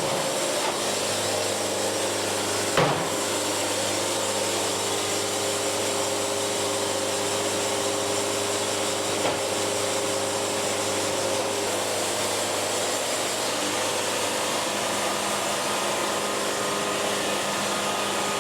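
Band sawmill running steadily, its blade cutting through a log with the dust collector going. There is a single knock about three seconds in.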